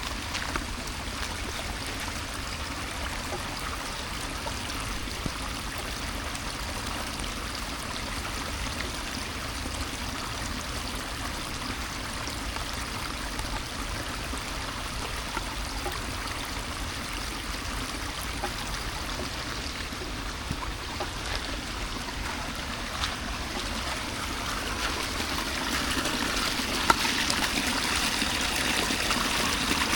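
Running water trickling and flowing steadily, growing louder over the last few seconds.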